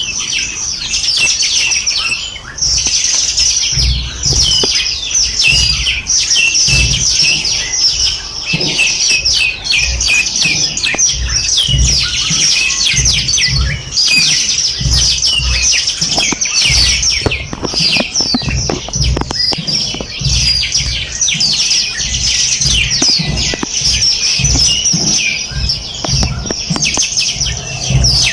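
Many small songbirds chirping and trilling at once in a dense, unbroken chorus of high, quick notes, with an irregular low rumble underneath.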